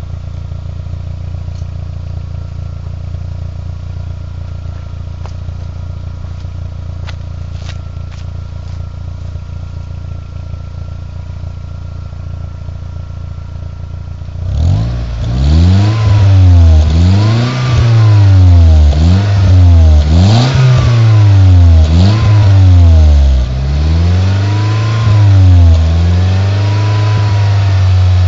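VW Golf IV 1.8T turbo four-cylinder engine heard through an aftermarket YED exhaust, idling steadily with a low drone, then revved repeatedly from about halfway on, each rev rising and falling in pitch about every second and a half to two seconds, before holding a steadier, higher note near the end.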